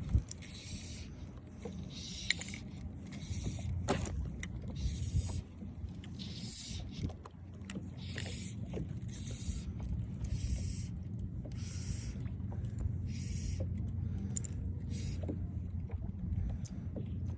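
Fly line being stripped in through the rod guides in a run of short hissing pulls, about one every half second to a second, over a low steady rumble of wind and water.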